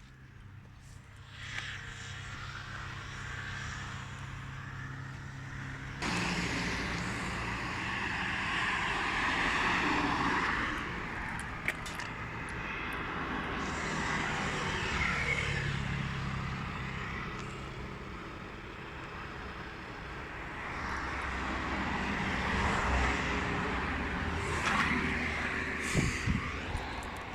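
Jet aircraft engine noise, continuous, with a low steady hum under it. It jumps suddenly louder about six seconds in, then swells and eases several times.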